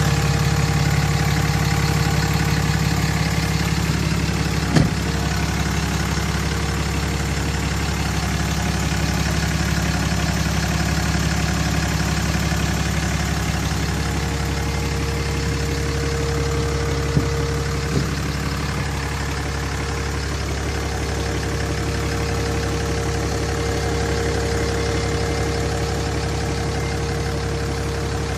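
Cummins inline-six turbo-diesel of a 2008 Ram 2500 pickup idling steadily. Three short, sharp clicks come over it, one about five seconds in and two close together near the two-thirds mark.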